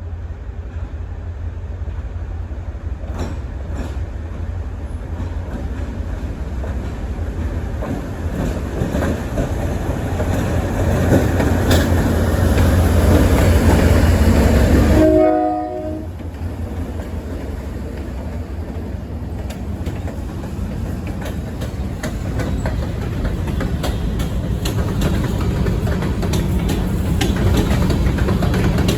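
Delaware-Lackawanna freight train running by: steady diesel locomotive rumble with wheels clicking over rail joints. It grows louder toward the middle, and a brief horn sounds about halfway as the sound drops sharply, then the rumble carries on.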